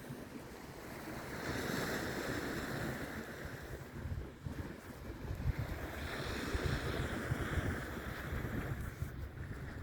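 Sea waves washing in with wind buffeting the microphone; the wash swells up twice, about two seconds in and again around six seconds in.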